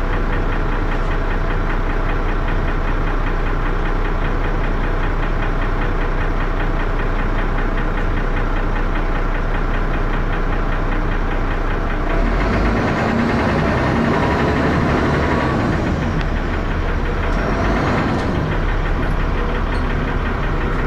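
Dennis Arrow double-decker bus's diesel engine running with a loud, regular knock and heavy thrash. About twelve seconds in the engine note rises and changes, as when the engine revs or takes up load.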